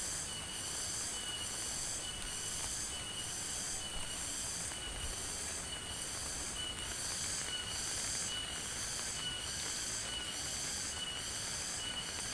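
A high-pitched insect chorus pulsing about twice a second over a steady hiss of rain.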